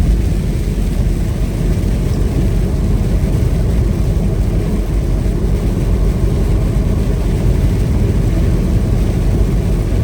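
Semi truck driving at highway speed: a steady, low rumble of engine and road noise.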